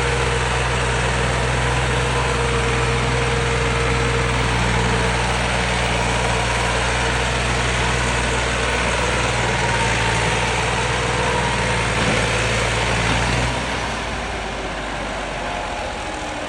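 Tractor diesel engine running steadily with a deep, even note. About thirteen seconds in the low engine note drops away, leaving a rushing noise.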